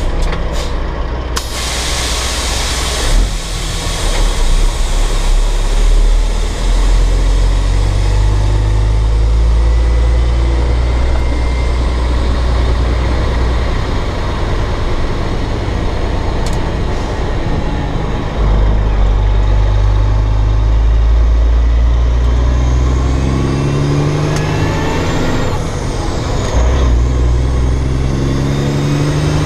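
Caterpillar C15 six-cylinder diesel in a dump truck pulling under load, its pitch dropping and climbing again as the driver shifts the 13-speed Eaton Fuller without the clutch, with the engine note rising steadily near the end. A short hiss sounds about two seconds in.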